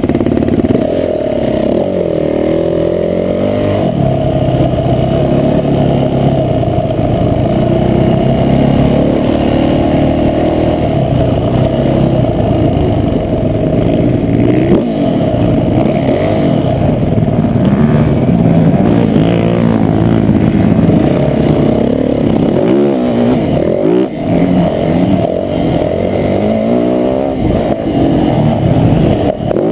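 Motocross bike engine revving hard and easing off again and again as it is ridden around the track, its pitch climbing and falling with the throttle and gear changes. The engine dips briefly about three quarters of the way through and again near the end.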